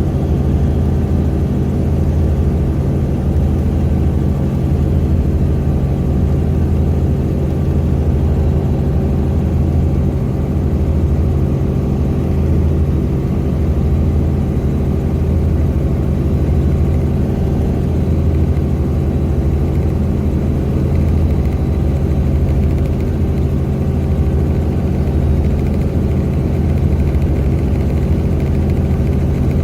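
Helicopter in flight, its engine and rotor giving a steady low drone.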